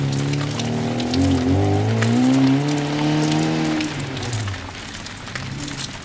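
Lada rally car's engine revving up and down as it drives across a grass field, fading as the car moves off about four seconds in, with a scatter of crackling noise over it.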